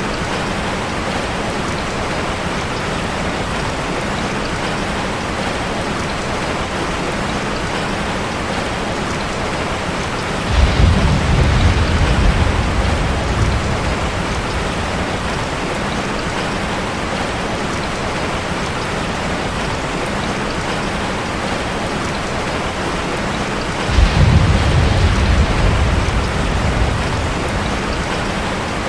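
Steady rain on a metal roof, with two low rolls of thunder: one about ten seconds in, one about twenty-four seconds in, each starting suddenly and dying away over a few seconds.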